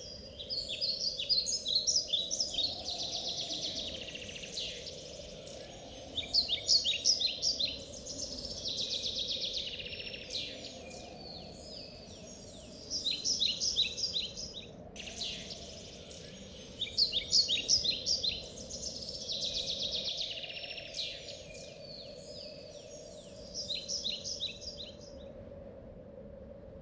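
Birdsong: recurring bursts of rapid, repeated high chirps and trills, every few seconds, over a faint steady low hum. The song breaks off abruptly about halfway through and then starts again.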